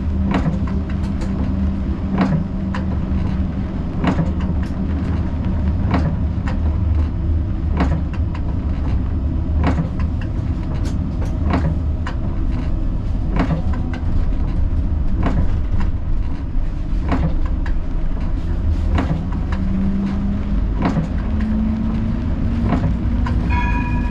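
Siemens Combino tram running along its track, heard from the cab: a steady low rumble of motors and wheels with short regular clicks about once a second. A low motor hum fades early on and rises in pitch again near the end.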